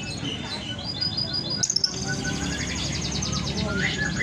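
Lovebird chirping: a rapid run of high repeated chirps starts about a second and a half in, with short sweeping calls near the end, over a steady low rumble. A brief sharp click sounds as the chirp run begins.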